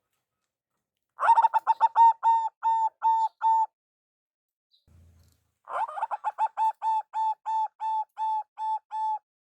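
Zebra dove (perkutut) cooing: two bouts of rapid staccato coo notes, each starting in a quick run and then settling into evenly spaced notes.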